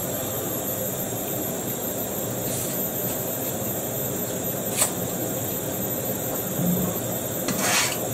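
Bamboo shoots and water chestnuts sizzling steadily in a saucepan on a gas hob, with a single sharp click about five seconds in and a brief louder hiss near the end.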